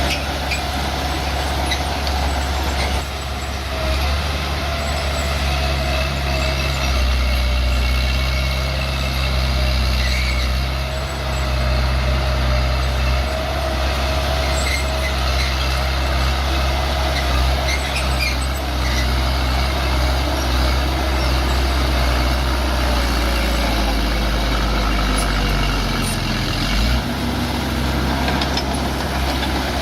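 Bulldozer's diesel engine running steadily, with a brief dip in engine pitch a little before the end.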